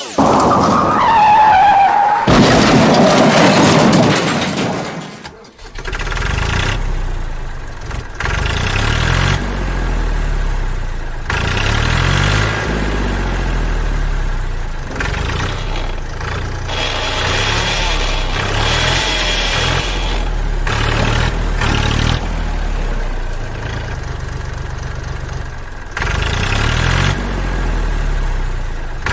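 A loud burst of noise for the first few seconds, then a vehicle engine running steadily with repeated short revs that rise in pitch every second or two.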